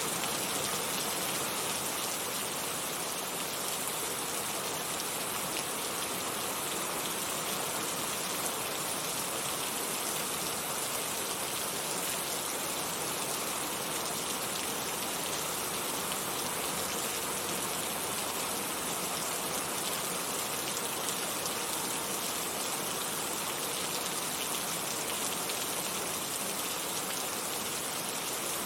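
Heavy rain falling steadily, a dense even hiss of many drops with no let-up or single events.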